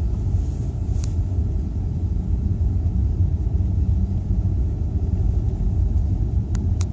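A car driving: a steady low rumble of road and engine noise, with a faint click about a second in and a couple more near the end.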